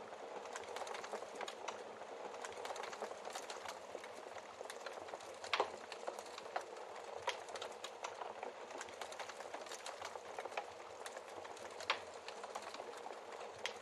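Wood fire crackling, a steady hiss full of small irregular clicks, with two louder pops from the burning logs, one about halfway through and one near the end.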